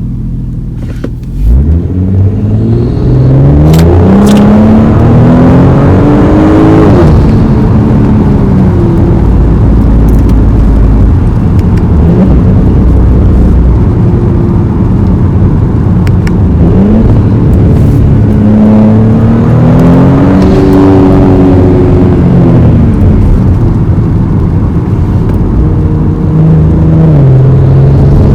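2018 Audi S5's turbocharged 3.0-litre V6 pulling hard: the revs climb for several seconds from about a second in, drop at a shift, then hold steady. A second pull comes with rising revs about two-thirds of the way through, then eases off.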